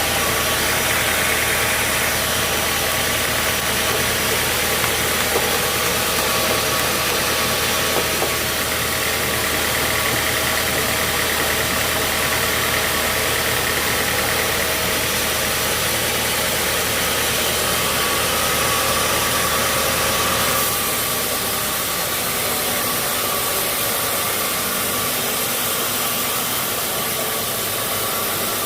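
Sawmill machinery running steadily: a constant low engine drone under a high hiss. About twenty seconds in, the low drone drops away and the hiss carries on.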